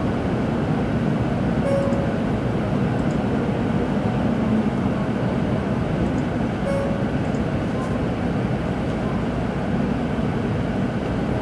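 Steady rumble and hiss inside a Tōkaidō Shinkansen Kodama passenger car, the train standing or just drawing to a halt at a station platform while it waits for a signal.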